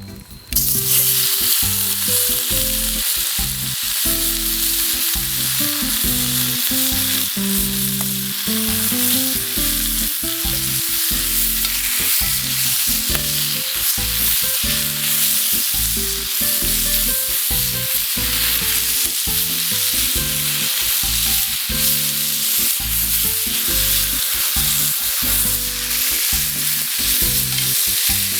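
Meat sizzling steadily in a hot Turk wrought-iron frying pan, the sizzle starting abruptly about half a second in. A low, shifting tune runs underneath.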